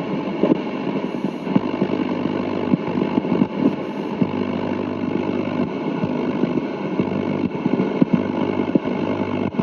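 Sony ICF-5900 transistor radio playing steady static through its speaker, a rushing noise with a low hum and scattered crackles.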